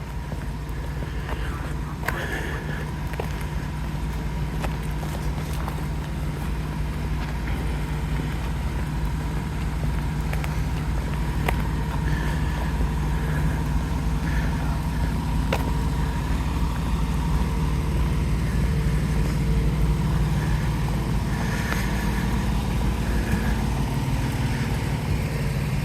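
Fire truck's engine idling steadily, growing gradually louder, with a few faint clicks.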